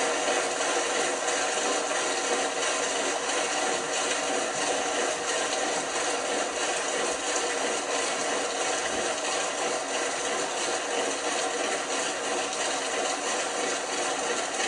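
LG washing machine running with a steady whirring noise that holds even throughout.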